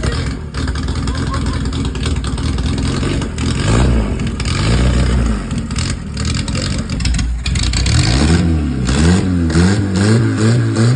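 Worn engine, its piston rings suspected shot, running and being revved, its pitch rising and falling again and again, with quick repeated revs near the end.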